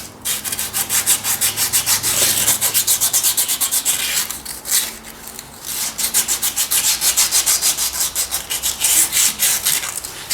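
Emery paper rubbed by hand over a metal tractor part in quick back-and-forth strokes, several a second, with a short pause about halfway through.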